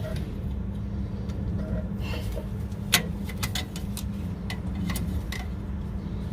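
Metal clicks and taps as a brake caliper's pad retaining pin and clips are worked out by hand, with one sharper click about three seconds in and several lighter ones after it, over a steady low hum.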